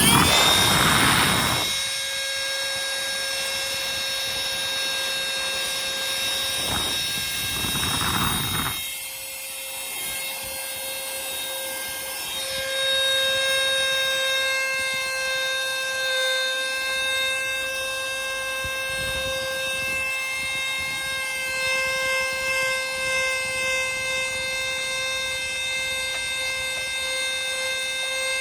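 Lachesis 9000Pa cordless handheld vacuum cleaner switched on, its motor whining up to speed, then running steadily with a high-pitched whine. Its level shifts a little about 9 and 12 seconds in.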